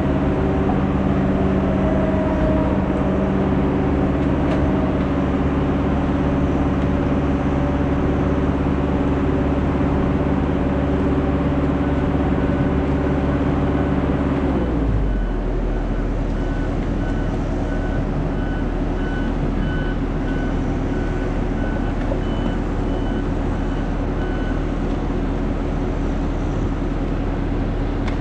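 Heavy logging machine's diesel engine running at high revs, then dropping to a lower idle about halfway through. Faint regular beeping runs through the middle part.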